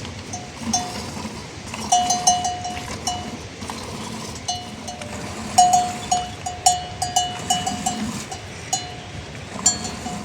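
Bells worn by grazing livestock clanking irregularly, single strikes and quick runs of several, over a steady background hiss.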